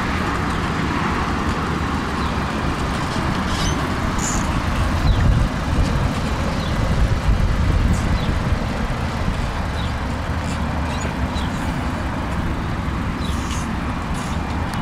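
Steady vehicle and road-traffic noise, a continuous low rumble with a louder swell from about five to eight seconds in.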